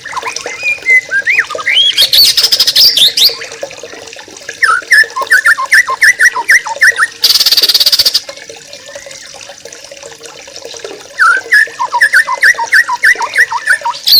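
A flock of yellow-vented bulbuls (trucukan) chattering: quick runs of short bubbly chirps, with higher sweeping notes about two seconds in and a short harsh buzzy burst about halfway through.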